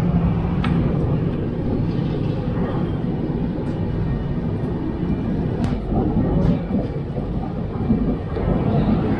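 Moving passenger train heard from an open coach door: a steady low rumble of the running coach and its wheels on the track, with a couple of sharp clicks.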